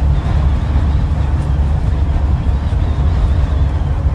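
Scania N94UD Omnidekka double-decker bus under way, its engine and running gear making a steady deep rumble, heard from inside the passenger saloon.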